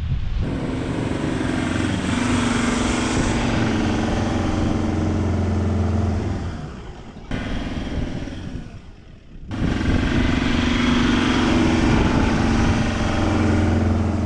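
Four-wheel-drive vehicle's engine running steadily as it drives on soft beach sand, in two stretches with a quieter break in the middle.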